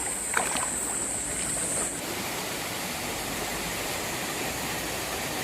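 Mountain stream water flowing steadily over a rocky bed, with a steady high hiss over it that stops about two seconds in.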